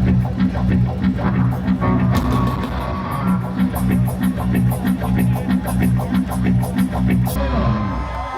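Live rock band playing loud, with electric guitar and bass chords over drums keeping a fast, even cymbal beat; the music stops abruptly near the end.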